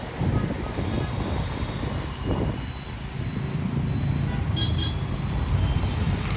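Road traffic on a city street: a steady low rumble of passing vehicles, with a short high beep about four and a half seconds in.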